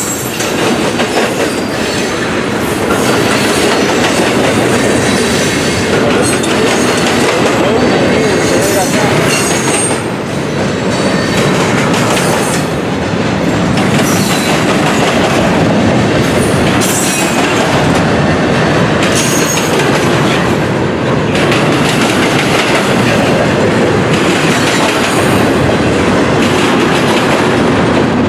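Railroad cars rolling past at close range, wheels clattering over the rail joints in a steady run, with brief high wheel squeal now and then.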